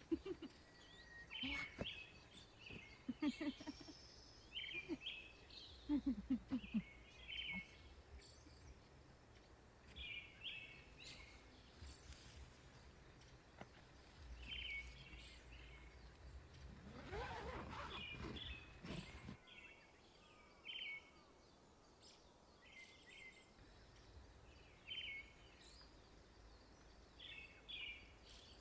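Birds chirping in short, repeated calls over a low outdoor rumble, with a louder rush of noise that swells and fades about two-thirds of the way through.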